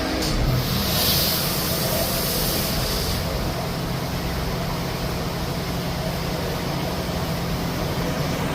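Automatic motorcycle wash machine running with a steady motor hum, and a hissing spray during the first three seconds or so.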